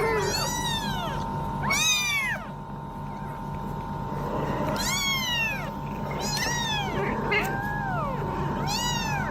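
A cat meowing repeatedly: about five drawn-out, high meows that rise and fall in pitch, over a steady background hum.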